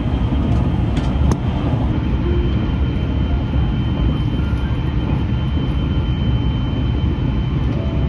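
Steady running noise of a JR West 683 series limited-express train heard from inside the carriage, a dense low rumble of wheels on rail. A train on the next track whips past in the first second or so, with a couple of sharp clicks.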